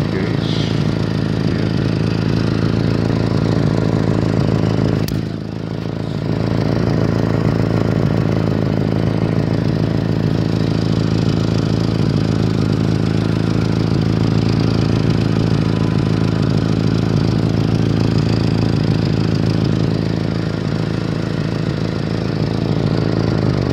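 1989 Honda Civic's four-cylinder engine idling steadily, with the raspy exhaust note of a leak at the center pipe. The sound dips briefly about five seconds in.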